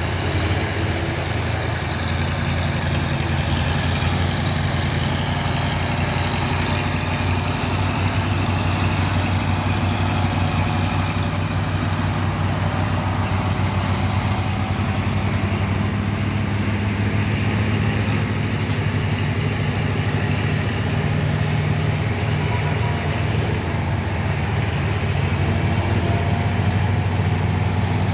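Heavy diesel truck engine running steadily at low revs, a continuous deep drone.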